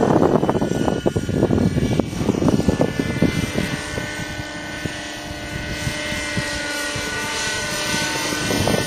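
Raptor 50 RC helicopter's nitro glow engine and rotors running with a steady whine while in flight. Strong gusts buffet the microphone, heaviest in the first few seconds and again near the end.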